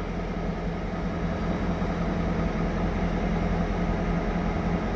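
CN GP38-2 diesel-electric locomotives idling while the train stands waiting to switch tracks: a steady low rumble with a held engine hum.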